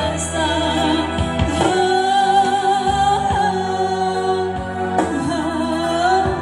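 Live cover of a pop ballad: a singer holds long, wavering notes over electronic keyboard accompaniment, with a percussion hit about every second.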